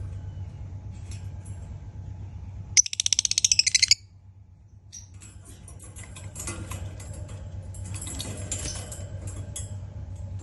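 Green opaline lovebird calling: a loud, rapid, harsh chattering burst about three seconds in that lasts about a second, followed by scattered high chirps. A steady low hum runs underneath.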